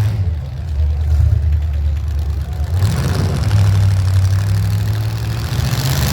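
Demolition derby vehicle engines running with a steady low drone, joined by a wide hiss of added noise from about halfway through.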